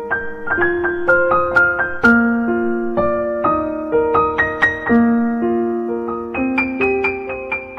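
Background piano music: a slow, gentle melody of struck notes, each held and overlapping the next.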